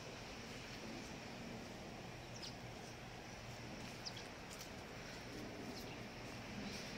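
Faint outdoor ambience with a steady hiss, and a few short, high bird chirps scattered through it.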